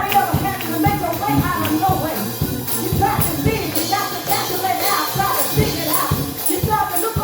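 Church praise music: a tambourine shaken and struck on a steady beat, with singing and instruments over it.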